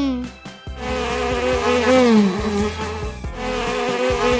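Honeybee buzzing: a steady droning hum that wavers a little in pitch. It starts about a second in and comes in two stretches, with a short break near three seconds.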